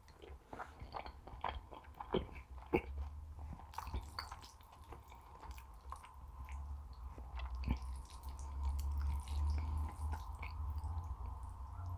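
Close-miked chewing of soft potato zrazy with minced-meat filling: slow, wet mouth sounds with scattered small clicks and soft bites, over a steady low hum.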